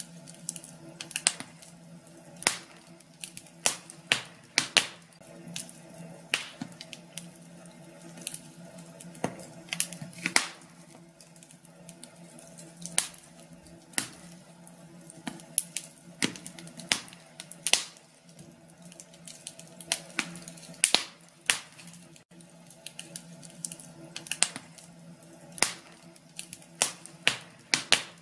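Wood fire in a fireplace crackling, with irregular sharp pops and snaps, the louder ones about once a second, over a faint steady low hum.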